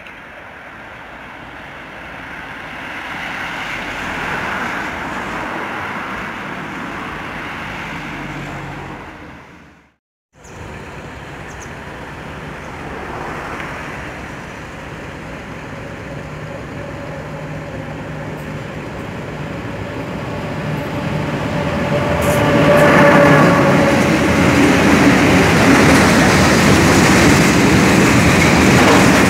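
A diesel locomotive on a passenger train approaching and growing louder, then, after a break, a freight train behind an electric locomotive drawing near and running past close by. There is a held tone for a couple of seconds as the locomotive comes level, followed by the steady rumble of the wagons rolling past.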